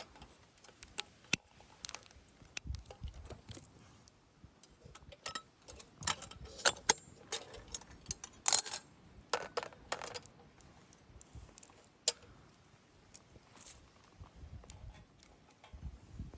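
Small metal items clinking and rattling as they are handled, in irregular light clicks with a cluster of louder clanks in the middle.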